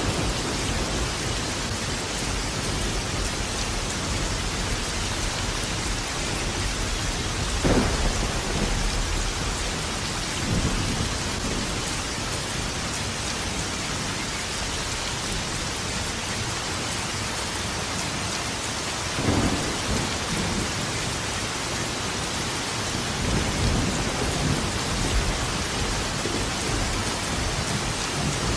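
Steady heavy rain with rolling thunder: sharp thunderclaps about 8 seconds in and again around 19 seconds, each trailing off in a low rumble, and further low rumbles later on.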